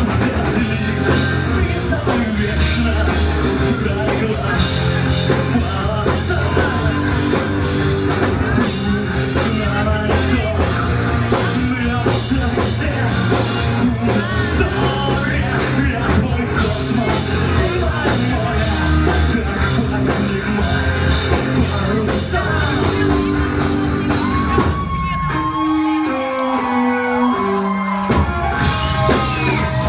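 Live rock band playing the song between sung lines, with drums and bass driving. About 25 seconds in, the drums and bass drop out for a few seconds, leaving a single melodic line of stepping notes, and then the full band comes back in.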